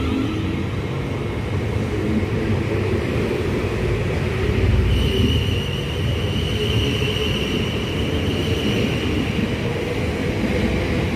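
South Western Railway electric train running through the station with a steady rumble; a high, steady whine joins about halfway through and carries on.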